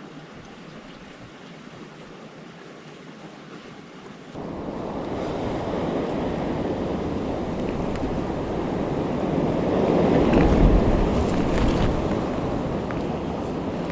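Strong wind blowing and buffeting the microphone with a deep rumble. It steps up sharply about four seconds in, and the strongest gust comes around ten seconds in.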